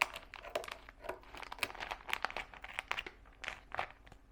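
Plastic zip-lock package crinkling and crackling in irregular snaps as it is handled and cut open with scissors.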